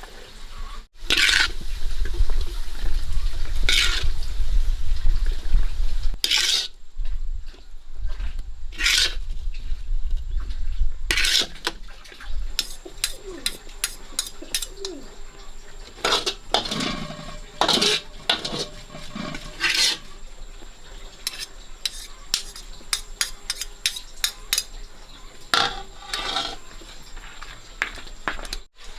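Kitchen work: repeated clinks and knocks of utensils on pots and dishes, with liquid being stirred, and a low rumble through the first half.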